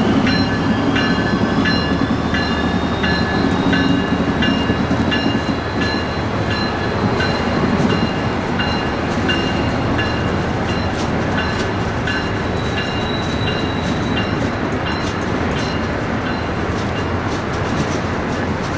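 Train passing, with a steady rumble and a bell ringing a bit under twice a second that fades out about halfway through. Wheels click steadily over the rails in the second half.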